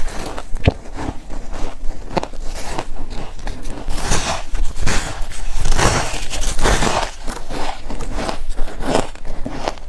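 A person biting and chewing chunks of layered freezer frost: irregular crisp crunches and cracks, the loudest bunched together about four to seven seconds in.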